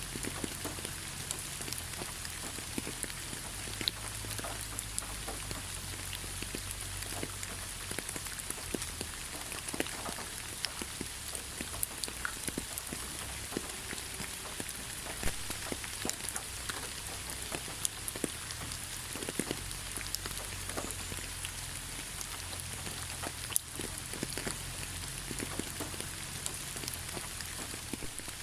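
Steady rain falling on forest foliage: a continuous hiss with many separate drops pattering and ticking throughout.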